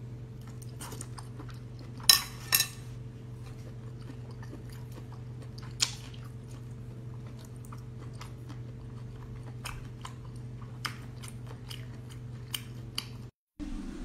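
Close-up chewing and biting of a long octopus tentacle, with wet mouth clicks and two louder sharp bites or smacks about two seconds in, over a steady low hum. The sound drops out briefly near the end.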